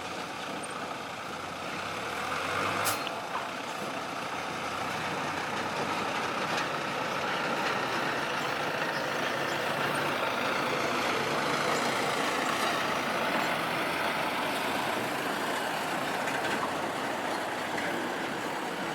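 Diesel engines of heavy earthmoving machinery, an excavator and a dump truck, running steadily at work, with a sharp click about three seconds in.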